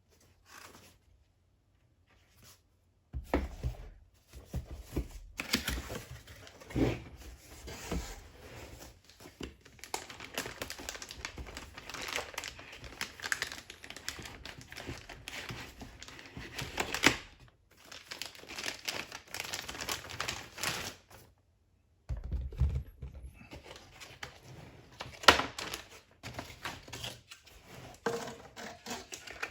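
Plastic and cardboard packaging being handled and unwrapped by hand: irregular crinkling and rustling with small knocks, starting about three seconds in and stopping briefly twice.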